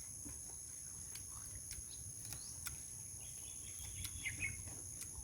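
Quiet outdoor ambience: a steady high-pitched insect drone, a few faint bird chirps and scattered soft clicks.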